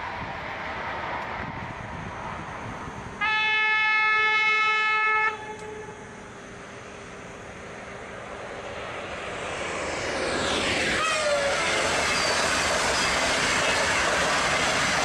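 Train horn sounding once for about two seconds and cutting off sharply, over the rush of a train. Near the end a train rushes past at speed: the sound swells and a whining tone falls in pitch as it passes, and the loud rush of the passing cars continues.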